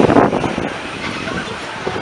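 Loaded grain hopper cars of a slow freight train rolling past, their steel wheels rumbling and clattering on the rails, a little louder in the first half second.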